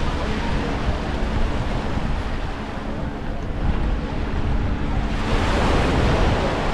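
Small surf washing onto a beach, with wind noise on the microphone. A wave surges up louder about five seconds in.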